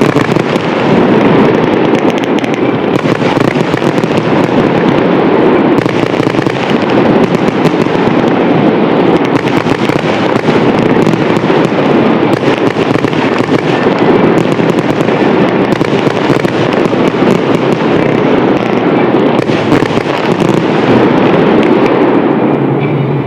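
Fireworks display firing a dense, continuous barrage of many overlapping bursts and crackles, loud throughout, easing off near the end.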